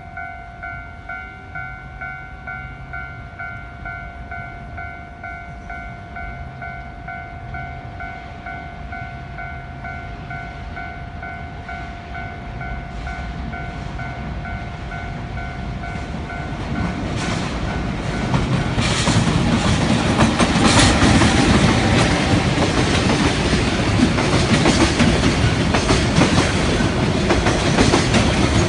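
Japanese level-crossing alarm ringing its repeated electronic "kan-kan" tone, then a JR Kyushu train approaching and passing over the crossing. The train grows loud about two-thirds of the way in and drowns out the alarm, its wheels clacking over the rail joints.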